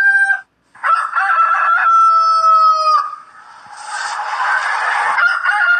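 Rooster crowing twice: one long crow about a second in, then a noisy stretch, then a second crow starting near the end.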